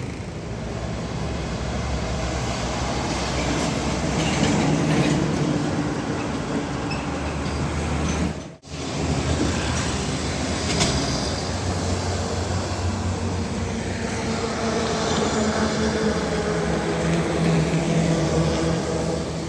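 Heavy diesel trucks running past in road traffic, with a steady engine drone and tyre noise whose low pitch shifts as vehicles come and go. The sound cuts out for a moment about halfway through.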